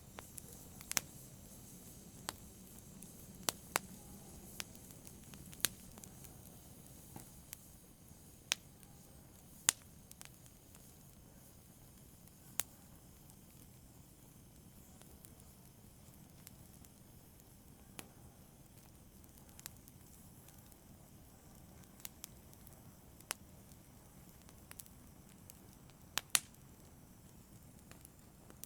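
Fire crackling softly: sharp, irregular pops over a faint steady hiss. The pops come often in the first ten seconds or so, then more sparsely.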